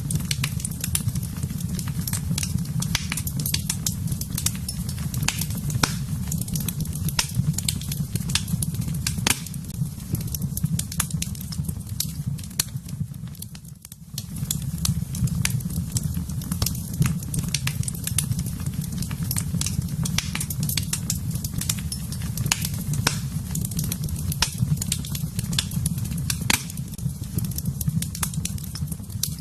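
Wood fire burning in a fireplace: a steady low rumble with irregular sharp crackles and pops throughout. The sound briefly fades down and comes back up about halfway through.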